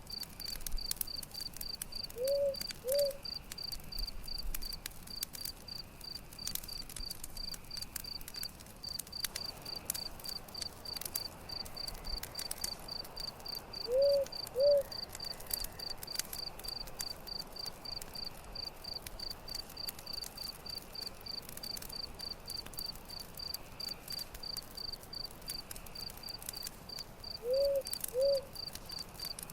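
Campfire crackling with sparse sharp pops, over crickets chirping in a steady, even rhythm. A low two-note call sounds three times, about twelve seconds apart.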